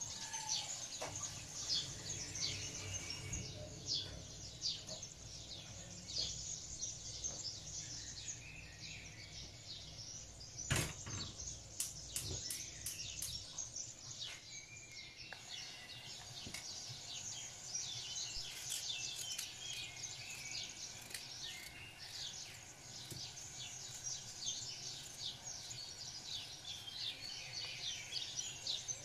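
Many small birds chirping in a dense, continuous chorus of short calls. A single sharp knock partway through.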